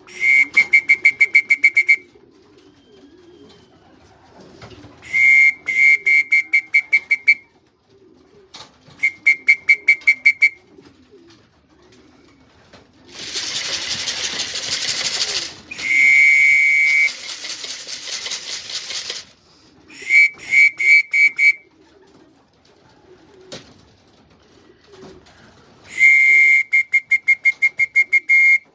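Racing pigeons cooing while a trilling whistle is blown in six bursts of about two seconds each, the keeper's call to the birds. A few seconds of hissing noise come about halfway through.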